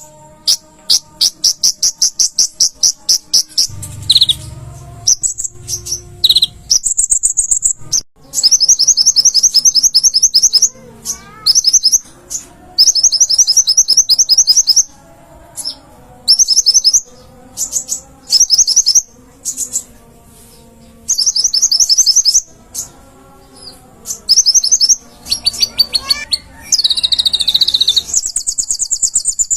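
Konin (kolibri ninja) sunbird singing: rapid high-pitched trills of many quick repeated notes, given in bursts of one to several seconds with short pauses between them.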